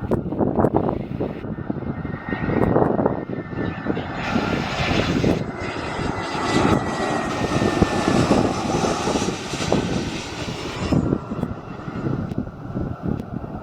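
Airbus A320 jet airliner passing close by, its engine noise strongest and brightest in the middle, with a faint whine slowly falling in pitch. Wind buffets the microphone throughout.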